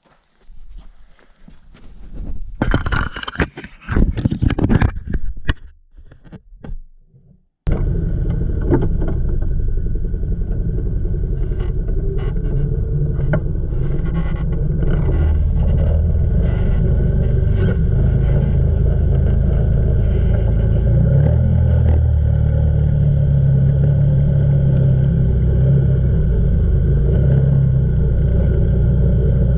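Irregular loud bursts of noise for the first several seconds, then an abrupt change to the Can-Am Outlander 800's V-twin engine running steadily under load as the ATV pushes through a deep mud hole in four-wheel drive, its low note growing heavier in the second half.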